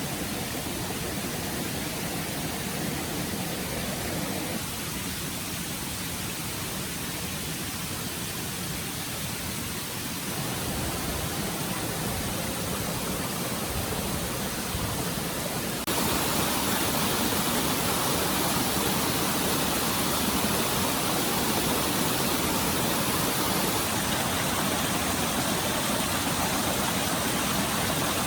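Stream water running: a steady rush of flowing water that jumps abruptly louder a little past halfway.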